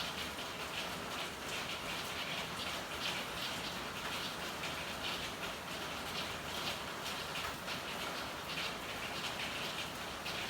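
Steady rain with many irregular drips and patter ticking through it.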